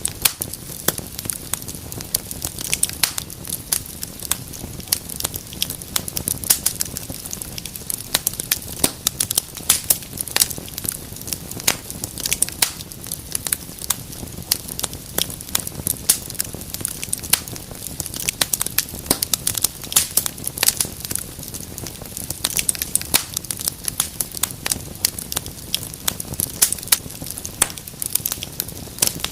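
Wood fire in a fireplace crackling, with many sharp irregular pops and snaps over a low steady rumble of the flames.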